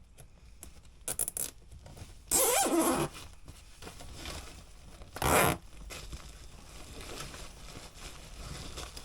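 A few light clicks, then two loud zipping rasps: one lasting under a second about two seconds in, and a shorter one about five seconds in.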